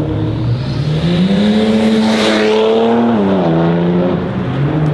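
BMW X3 M Competition's twin-turbo inline-six with a custom exhaust accelerating hard: the engine note climbs steeply, holds high, then drops sharply about three seconds in.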